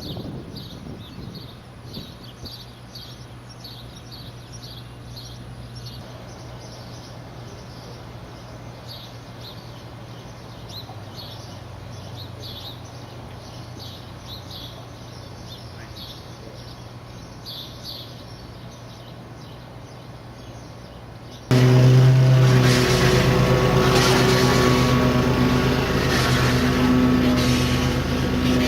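A steady low mechanical hum under repeated high chirps, likely birds. About two-thirds of the way in, a much louder machine starts suddenly and runs on with a steady drone.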